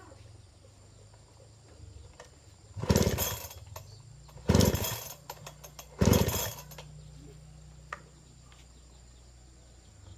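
Restored Husqvarna 365 two-stroke chainsaw idling with a low steady hum, revved sharply three times, about a second and a half apart, before dropping back to idle.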